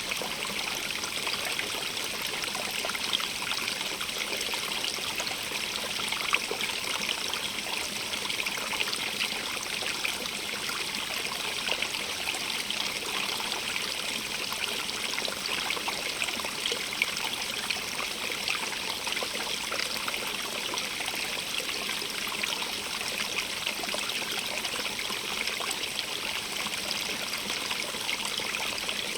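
A stream running steadily over stones, a continuous splashing and trickling hiss that is strongest in the upper range, flecked with small bright splashes and without pauses.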